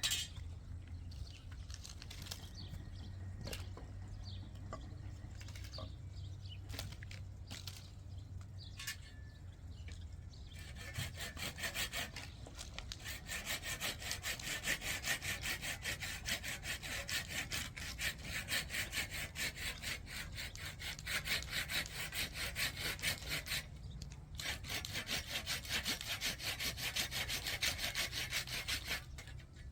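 Scattered faint taps over a low hum, then from about ten seconds in, a rhythmic back-and-forth scraping, about two strokes a second, with a brief pause near the end.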